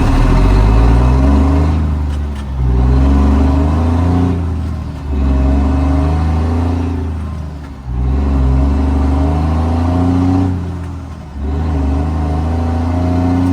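Straight-piped Cummins L10 inline-six turbo diesel in a Ford L9000 dump truck pulling hard up through the gears. The exhaust note drops away briefly at each of four gear changes, then picks up again under load.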